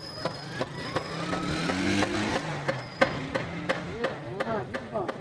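Repeated sharp knocks, like hammering or tapping on metal during motorcycle engine repair, irregular at first and then about three a second. An engine's pitch rises and falls underneath through the middle.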